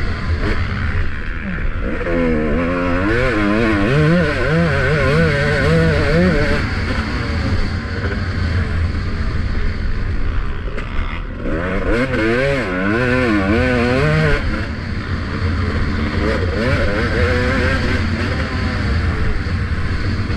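Motocross bike engine revving hard on the track, its pitch wavering quickly up and down as the throttle is worked, in two strong stretches about two seconds in and again around eleven seconds in, over a steady low rumble. Heard from a helmet-mounted camera on the bike's rider.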